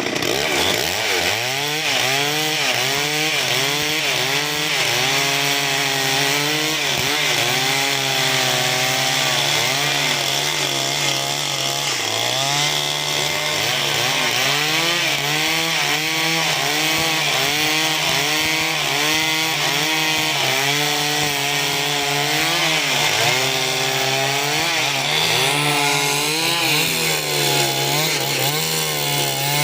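Chainsaw running under load, cutting through timber; the engine pitch wavers up and down as the chain bites, with a short dip about twelve seconds in.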